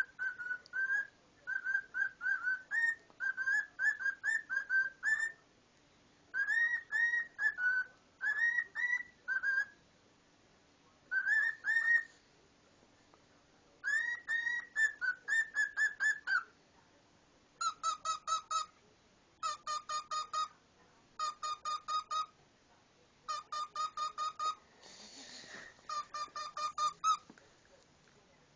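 Pet cockatiel whistling a tune in short phrases of rising and falling notes. About two-thirds through it switches to bursts of rapid, short, same-pitched beep-like notes. A brief burst of noise comes near the end.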